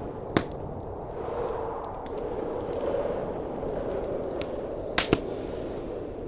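Wood fire crackling in a fireplace over a steady rush of blizzard wind, with a sharp pop about half a second in and a quick double pop near the end.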